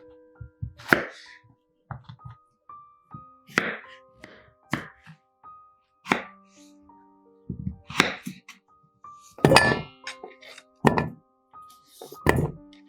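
Knife chopping on a cutting board, about eight sharp knocks spaced a second or so apart, over soft background music with held notes.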